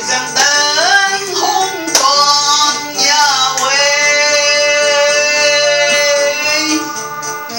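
A woman singing a melodic line over instrumental accompaniment, with sliding ornaments and one long held note of about three seconds in the middle.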